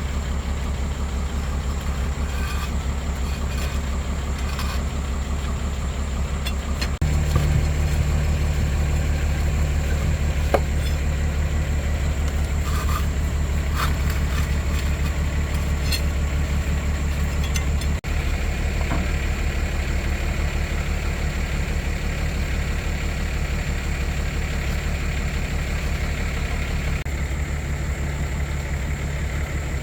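Excavator's diesel engine running steadily, getting louder about seven seconds in, with a brief dip about midway.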